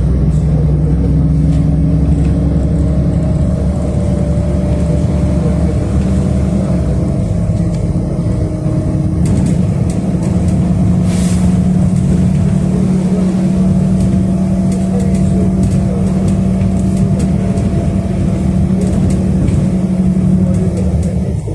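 City bus engine and drivetrain running under way, heard from inside the passenger cabin: a steady low hum with whining tones that climb slowly as the bus pulls. A brief hiss about halfway through.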